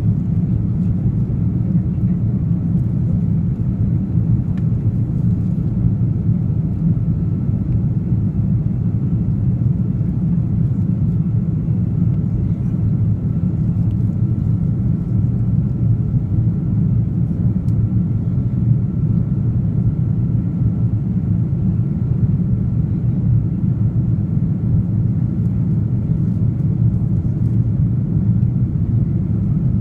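Steady rumble of an Airbus A330-300's engines and airflow heard from inside the passenger cabin, with a faint steady whine above it.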